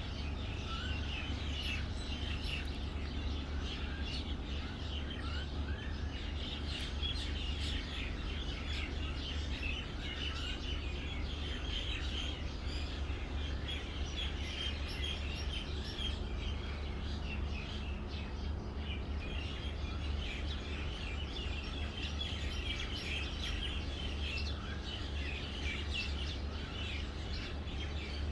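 Many small songbirds chirping and twittering continuously, dense overlapping short calls, over a steady low hum.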